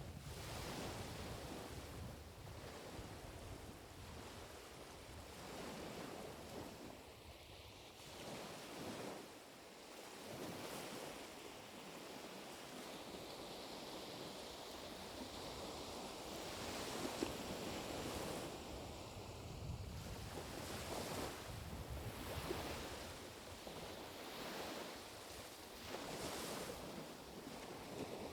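Gentle small waves of the Sea of Okhotsk washing onto the shore. Soft surges of surf rise and fall every few seconds.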